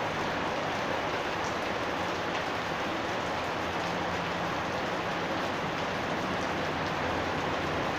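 Steady rain falling on a house yard, a dense even patter with scattered individual drops.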